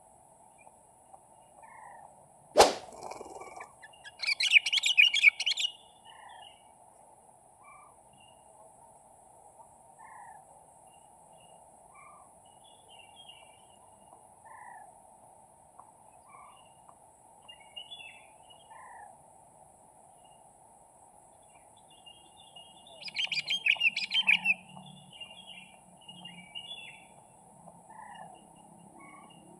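Birds calling: short single notes repeat every second or two, with two bursts of rapid, loud chattering, one about four seconds in and one near the end. A single sharp click sounds a few seconds in, over a steady background drone.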